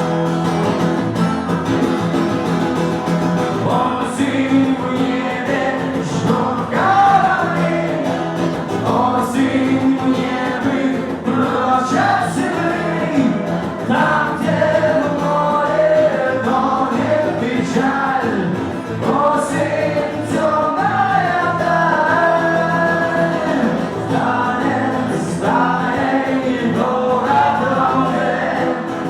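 A live song performance: steady instrumental backing with voices singing the melody, sounding like several voices together.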